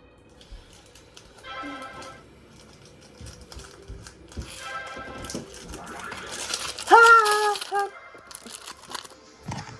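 Plastic toy washing machine clattering and rattling as it is knocked about. Snatches of background music play, and a loud pitched sound that rises and then holds for about a second comes about seven seconds in.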